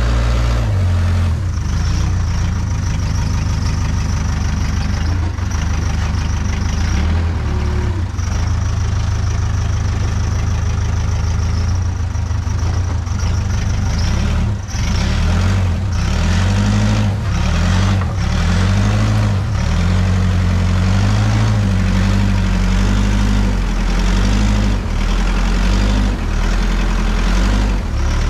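Case 580K backhoe's diesel engine running hard, its pitch rising and falling as the machine is worked. A steady high whine sounds through roughly the first half, and knocks and clunks come now and then in the second half.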